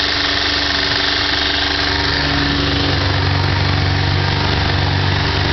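Matra Bagheera's four-cylinder engine held running steadily at about 3000 rpm, its low note growing stronger about halfway through.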